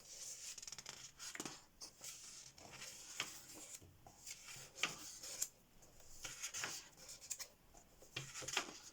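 Paper pages of a paperback colouring book being turned one after another, a faint swish and rustle of paper every second or two.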